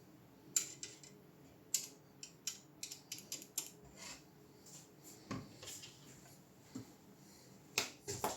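Irregular sharp clicks and light taps of small hard tools and parts being handled by hand, around fifteen of them spread unevenly, over faint room hiss.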